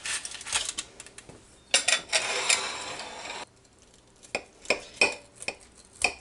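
Metal baking pan and utensils being handled: clattering, then a scraping, rustling stretch of over a second, then a handful of separate sharp clinks.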